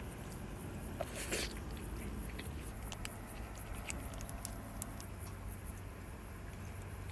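Wood fire crackling softly, with scattered small sharp pops and ticks over a low steady background.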